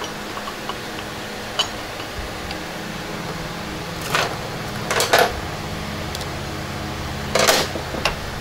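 A few short metallic clanks and clinks of tools and parts being handled, the loudest about four, five and seven and a half seconds in, over the steady hum of a workshop fan.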